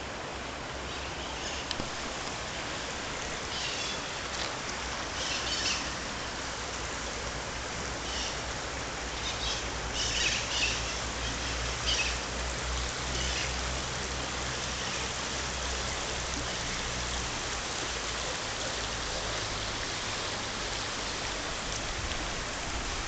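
Steady rush of water, with a few short high chirps over it in the first half and a faint low hum through the middle.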